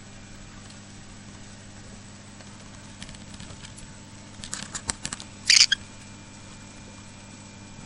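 A pet cockatiel moving about: a quick run of light clicks and taps about halfway through, then one short, loud, harsh sound. A steady electrical hum runs underneath.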